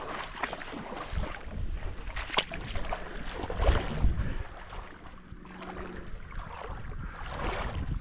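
River water splashing and sloshing in irregular surges, as from someone wading a shallow creek, with wind rumbling on the microphone.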